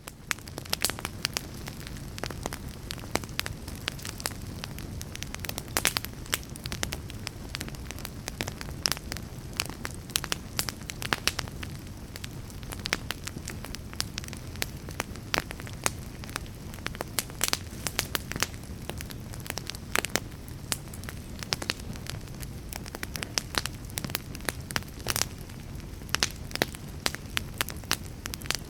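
Fire crackling: many irregular sharp pops and snaps over a steady low rumble of flames.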